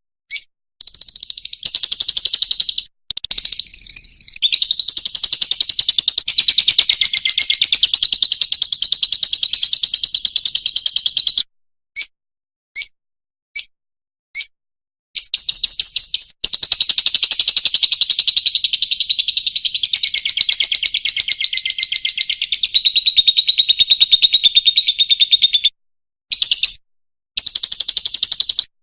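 Fischer's lovebird singing: two long runs of rapid, chattering high-pitched twitter, broken near the middle by a few separate short calls about a second apart.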